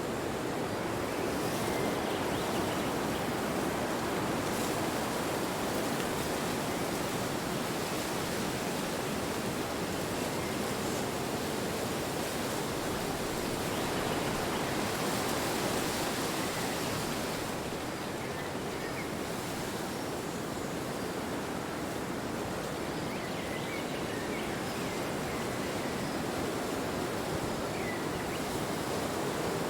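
Steady rushing wind, swelling and easing slowly, with no breaks.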